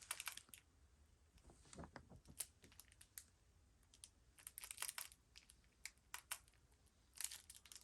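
Faint clicks and taps of a small plastic remote control being handled and its buttons pressed, in a few short clusters.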